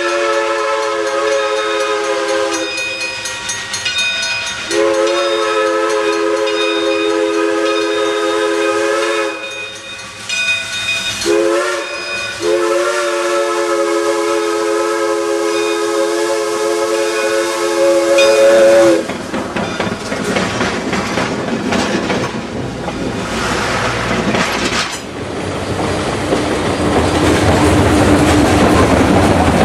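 Steam locomotive's chime whistle sounding a chord in two long blasts, one short and one long: the standard grade-crossing signal. After the last blast comes a steady rush of noise, louder from about 25 seconds in.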